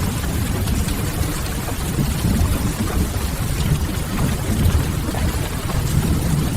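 Steady rain hissing, mixed over a deep, even rumble with faint crackle from a wood fire, as a continuous rain-and-fireplace ambience.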